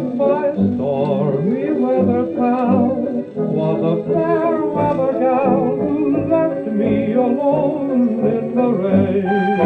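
Late-1920s dance band music playing from a 1929 Columbia 78 rpm shellac record. A wavering melody line carries over a steady band accompaniment, with the dull top end of an old disc.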